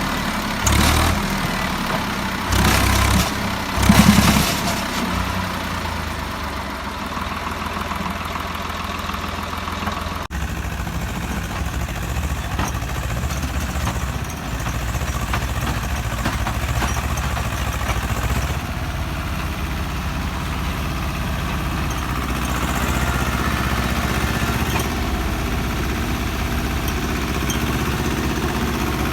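Swaraj tractor's diesel engine running at idle, a steady low rumble. It has a few louder bursts in the first five seconds.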